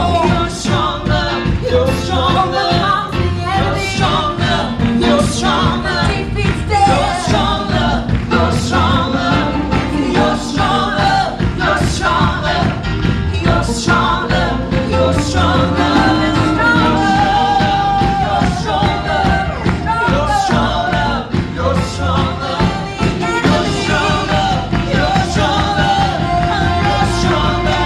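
Live praise and worship band playing an upbeat song with drums and singing.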